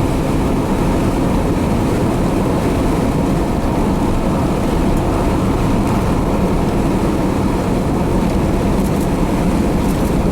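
Steady engine and road noise of a car driving at speed, heard from inside the cabin.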